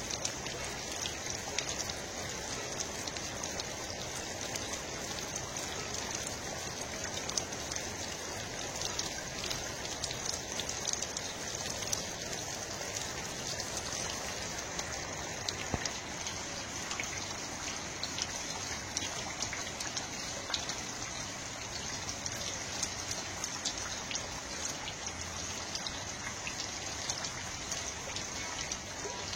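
Steady patter of water drops over an even hiss, with many small ticks throughout.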